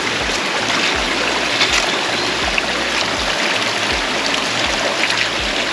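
Small spring-fed mountain stream running and splashing close by, a steady rush of water.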